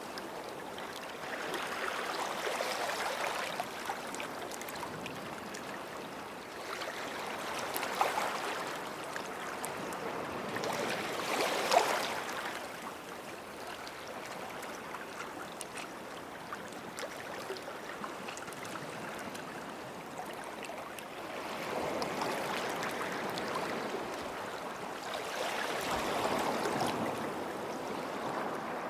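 Small sea waves washing in and out on a shore, the sound of water swelling and fading every several seconds, with a brief sharper splash twice.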